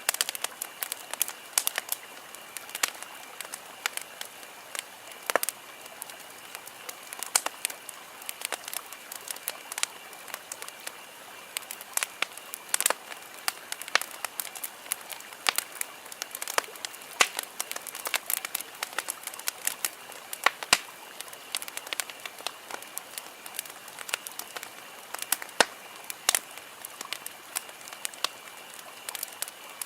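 Wood campfire crackling, with many irregular sharp pops and snaps over a soft hiss. A faint steady high-pitched tone runs underneath.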